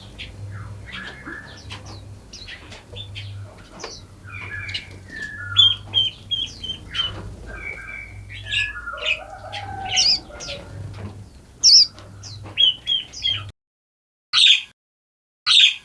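Mixed forest birds chirping and whistling, many short overlapping calls at varied pitches. About three-quarters of the way through, the background ambience cuts off abruptly, leaving two single short chirps standing alone against silence near the end.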